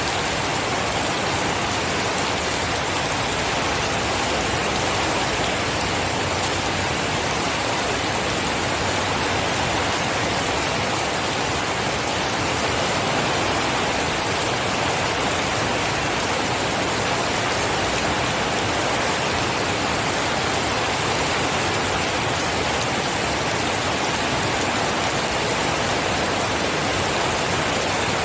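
Steady heavy rain falling. It makes an even, unbroken hiss without separate drops or thunder.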